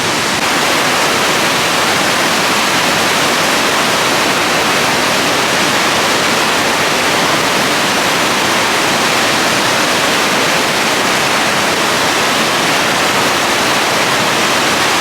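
Whitewater rapid on a mountain river: water rushing over and through rocks in a steady, loud, unbroken wash of noise.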